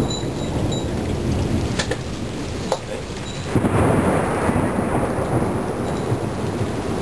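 Thunder rumbling over steady rain, the rumble swelling about three and a half seconds in and rolling on.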